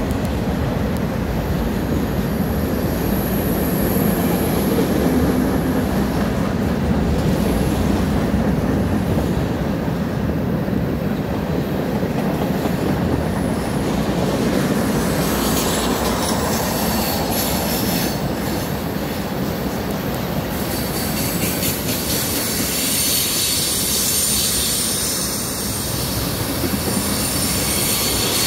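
Freight train cars rolling past: a steady rumble of steel wheels on rail, with a thin high wheel squeal early on and again through the last several seconds.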